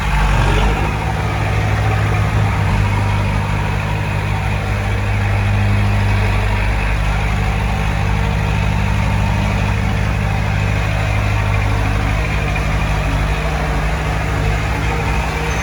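Heavy earthmoving machine's diesel engine running steadily with a low, even hum.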